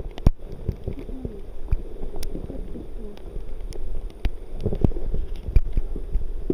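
Irregular sharp knocks over a low rumble and water noise, as from paddles working a river raft.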